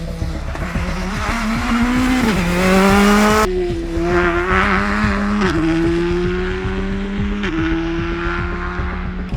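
Rally car engine under hard acceleration, its pitch climbing through each gear and dropping at the upshifts, about three times. The sound changes abruptly about three and a half seconds in.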